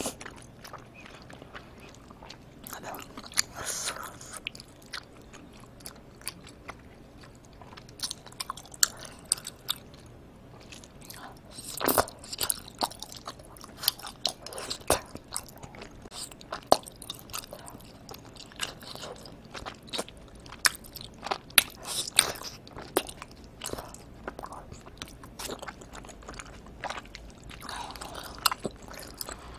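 Close-miked chewing and biting of chewy tteokbokki rice cakes in thick spicy sauce: irregular sharp mouth clicks and smacks, coming in clusters.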